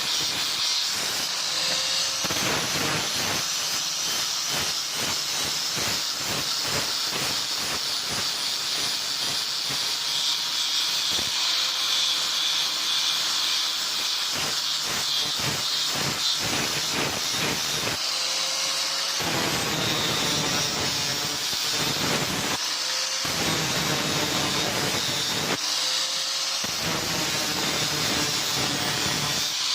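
A steady, loud hiss with rapid, rough scraping strokes running through it.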